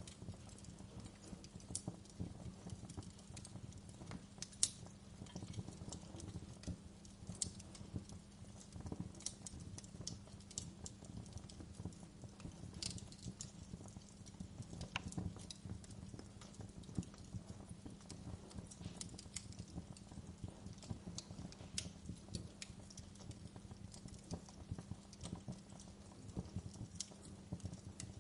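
Wood fire crackling in a fireplace: irregular sharp pops and snaps, some louder than others, over a low steady background.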